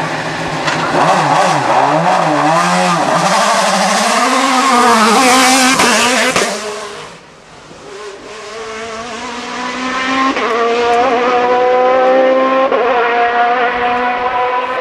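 Hillclimb racing cars at full throttle. One car's engine note rises and falls through gear changes, then is cut off abruptly about seven seconds in. A second car then approaches, revving up with its pitch jumping at each gear change.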